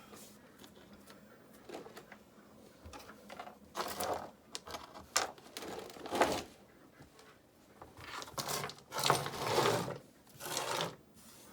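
Short bursts of scraping and rubbing, the loudest two together near the end, from river rock and mortar being worked by hand.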